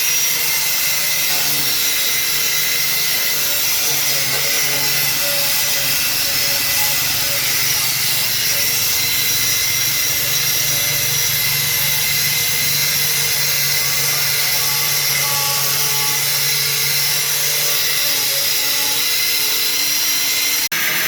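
An electric power tool running steadily with a continuous high, hissing whine. It cuts out for an instant near the end.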